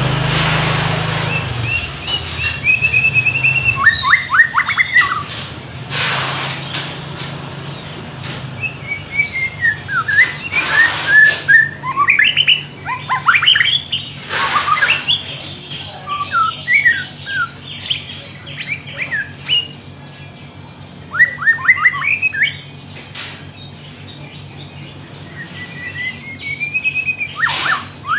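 A songbird singing in short, varied phrases of chirps, quick falling notes and trills, over a steady low hum, with a few brief bursts of noise.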